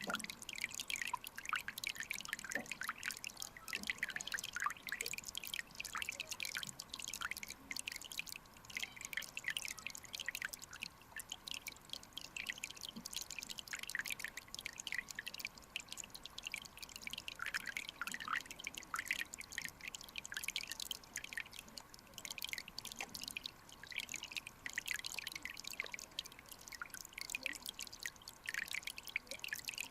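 Clear mountain stream running over rocks: a dense, continuous patter of small bubbling plinks and drips.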